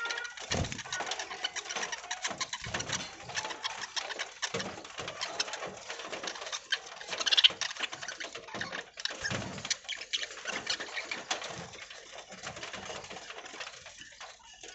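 Flock of budgerigars chattering and chirping continuously, with scattered soft thumps and a louder burst of calls about seven seconds in.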